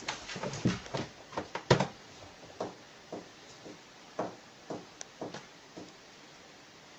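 A string of irregular short knocks and taps, the loudest about two seconds in, thinning out near the end.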